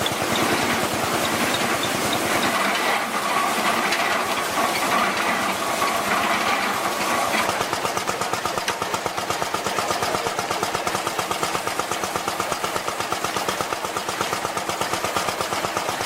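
An old engine running with a fast, even pounding beat that settles into a steady rhythm partway through.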